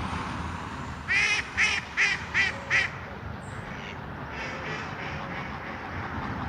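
Duck quacking five times in quick, even succession, followed by a few fainter quacks.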